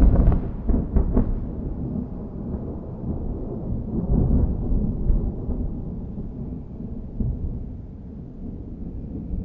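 Thunder: a loud clap with several sharp cracks in the first second or so, then a long low rolling rumble that swells again about four seconds in and slowly fades.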